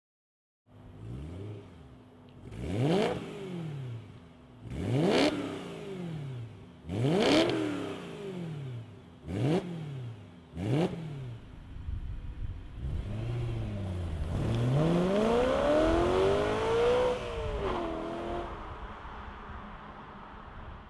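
BMW E92 M3's V8 through a DRB Motorsports stainless-steel aftermarket exhaust, blipped five times from idle, each rev rising sharply and falling back. About halfway through comes one longer, louder pull whose pitch climbs and then falls away near the end.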